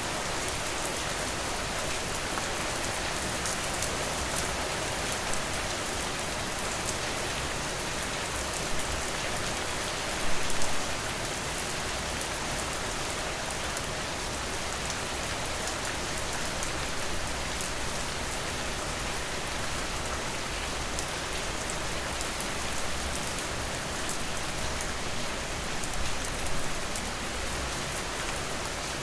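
Steady rain falling on a porch, an even hiss with fine patter of drops. A few brief louder knocks stand out about ten seconds in and again near the end.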